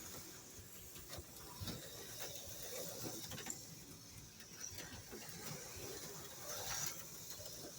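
Auto World X-Traction HO slot cars running on the plastic track: a faint mechanical whirr of small motors and gears with scattered light clicks.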